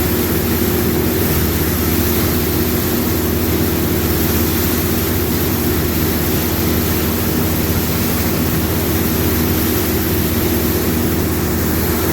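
Combine harvester running steadily at work: an even engine and machinery drone with several steady low hum tones, unchanging throughout.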